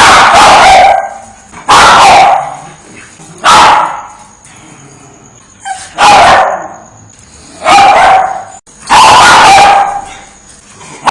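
A dog barking: six loud single barks, one every one and a half to two seconds.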